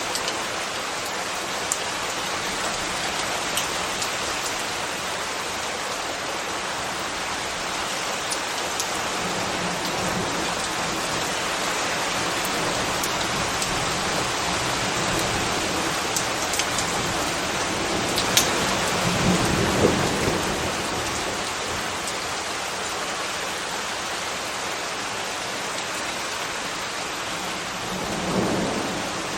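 Steady rain falling, with sharp drips ticking now and then. A low rumble swells up a few times, most strongly about two-thirds of the way through and again near the end.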